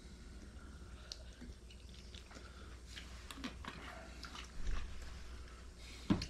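Quiet eating sounds at the table: chewing, with scattered faint clicks and a sharper knock near the end.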